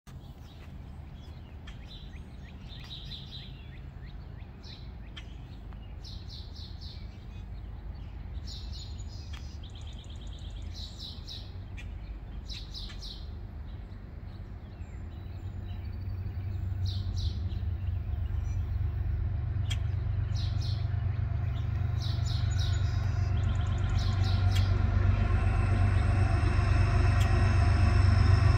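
Small birds chirping throughout, while the low rumble of an approaching diesel locomotive leading a coal train, Norfolk Southern 8118, swells steadily from about halfway through, its engine hum growing plainer near the end.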